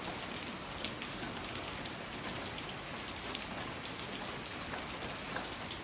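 Heavy rain falling steadily, with many separate drops pattering on a surface.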